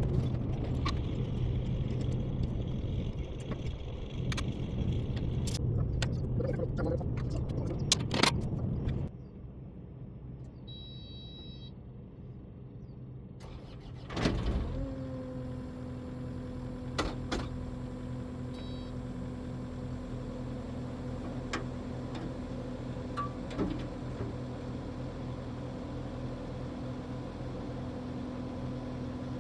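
Kubota SSV65 skid steer's diesel engine idling steadily, then stopping abruptly about nine seconds in. After a sharp knock a few seconds later, a quieter steady hum continues.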